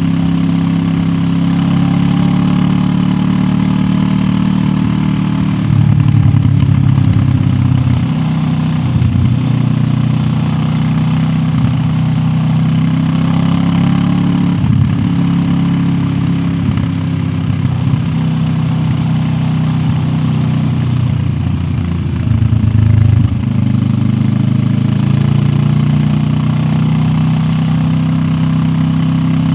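QJ Motor SRT 700X motorcycle engine running at steady cruising revs on the road. It briefly gets louder with a shift in pitch about six seconds in and again about three-quarters of the way through, as the throttle changes.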